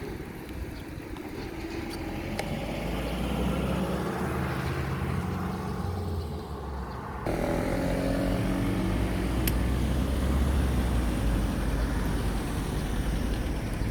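Motor-vehicle traffic running close by, heard from a moving bicycle over a steady low wind rumble on the microphone. Engine hum rises and falls, and the sound changes abruptly about seven seconds in.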